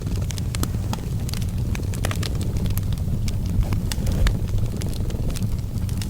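A cat purring in a steady low rumble, blended with a wood fire crackling in irregular sharp snaps and pops.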